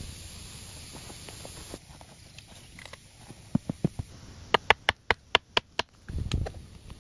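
A quick run of about ten sharp knocks over two and a half seconds, then low thumping and rustling near the end.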